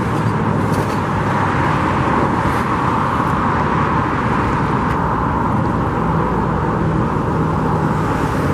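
Steady road traffic noise, a continuous rush of passing cars with a faint engine hum.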